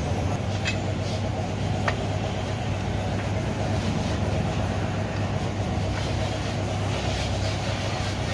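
A steady low mechanical drone with a few light clicks in the first two seconds.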